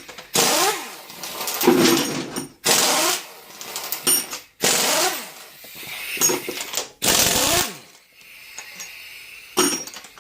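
Pneumatic wrench run in short bursts, about seven in all, each winding up and spinning down as it works bolts loose on a small-block Chevy 350 being torn down.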